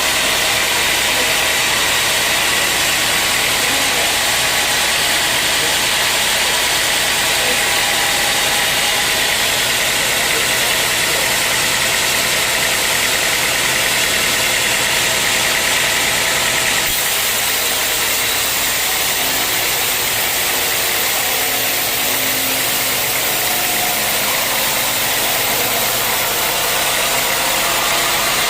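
Sawmill machinery running steadily while sawing dry teak wood, a continuous machine noise with a slight change in tone about 17 seconds in.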